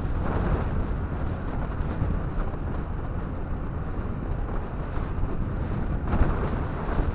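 Motorcycle riding in traffic: steady wind rushing over the microphone with engine and road noise underneath, a little louder about six seconds in.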